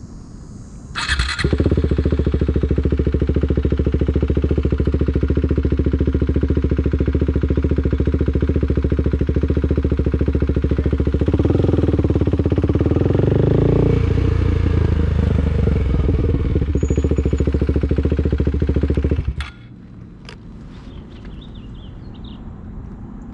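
Motorcycle engine running close to the microphone: a sharp short noise about a second in, then a loud steady engine note with a brief rise in pitch about twelve seconds in. The sound drops away suddenly near the end.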